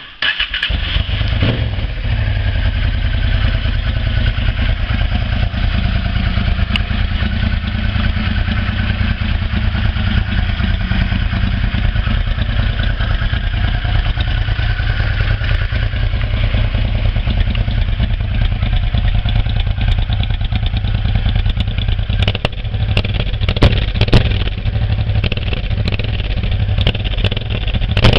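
Honda NTV650 V-twin motorcycle engine running steadily through a loud exhaust, with a few sharp cracks in the last several seconds.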